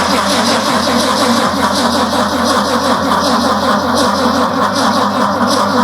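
Truck engine being cranked by its starter motor at a steady, even rhythm without catching. The fuel line and tank were run empty, so no fuel has yet reached the engine.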